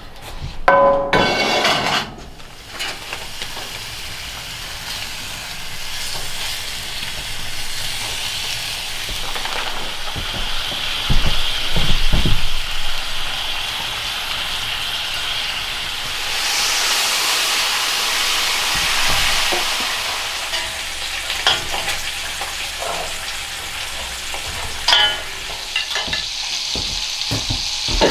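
Food sizzling as it fries in a hot pan, a steady hiss with now and then the clink and scrape of a utensil or pan; a ringing metal clink comes right at the start.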